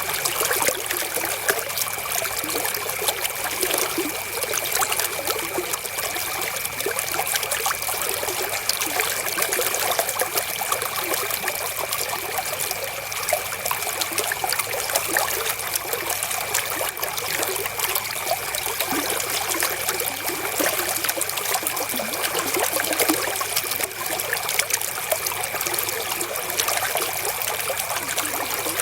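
River water flowing and trickling over stones: a steady, even babble of small splashes.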